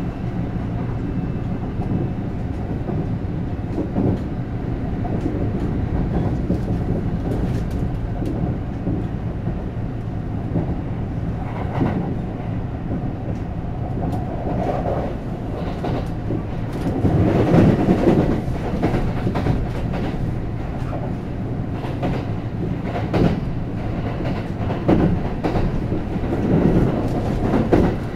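Running sound from inside a Kintetsu 9020 series electric train: a steady rumble of wheels on rail with some rail-joint clatter. It grows louder for a couple of seconds a little past the middle.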